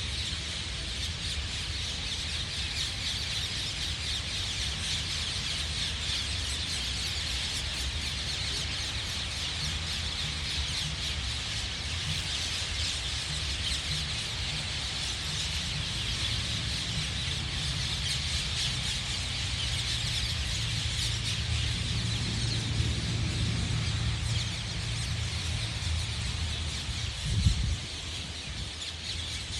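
Outdoor ambience of birds calling over a steady high-pitched hiss, with a low uneven rumble underneath and a single thump near the end.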